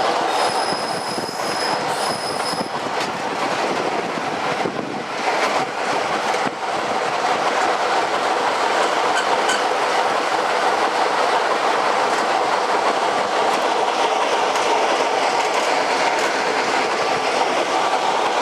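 A train running along the rails with a steady rumble and rail noise. A high wheel squeal sounds for the first few seconds, a few sharp clicks come about five to six seconds in, and the running noise then goes on steadily and a little louder.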